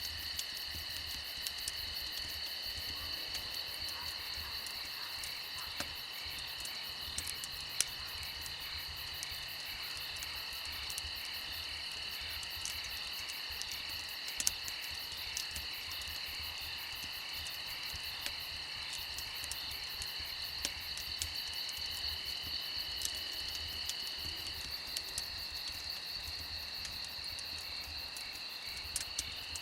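Crickets and other insects chirring steadily in several high-pitched layers, with scattered sharp crackles of a wood fire. One of the insect layers falls silent for a few seconds near the end.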